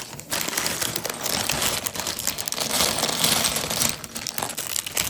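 Plastic LEGO parts bag crinkling as the small plastic pieces are shaken out of it, clicking and clattering onto the table.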